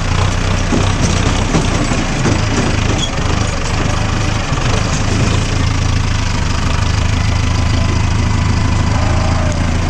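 Mahindra tractor's diesel engine running steadily under way, a constant low hum with some knocks and rattles in the first few seconds.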